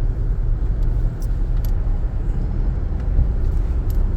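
Steady low rumble of a 2014 Jeep Grand Cherokee's V6 engine and tyres, heard from inside the cabin while driving on a snowy road, with a few faint light ticks.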